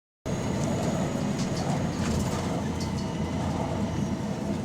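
Volvo B9TL double-decker bus's six-cylinder diesel engine running under way, heard on board as a steady low rumble with a few light rattles; the bus has an exhaust leak.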